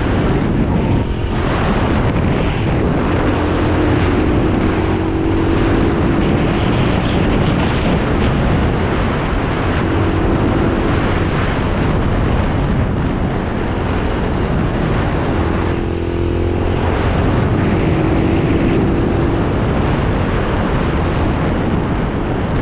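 Pit bike engine running while being ridden, its pitch rising and falling now and then, under a loud rushing noise that covers most of the sound.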